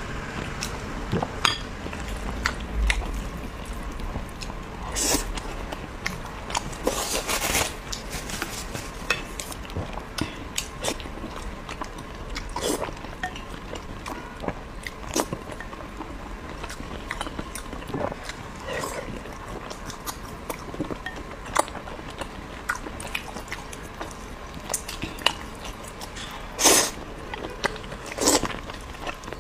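Close-miked eating of braised pork and rice: wet chewing and biting with many small clicks. A few louder noisy bursts stand out, about five and seven seconds in and twice near the end.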